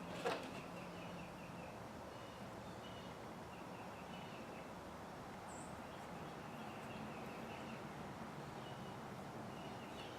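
A single sharp click about a third of a second in, then a faint steady hum with faint, repeated high chirps or ticks in the background.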